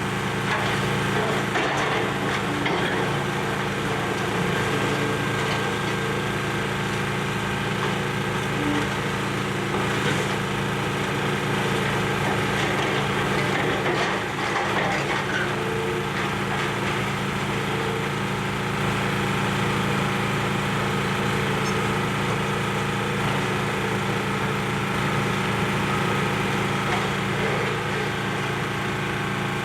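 Excavator's diesel engine running steadily, with scattered cracking and crunching of demolition debris as it works.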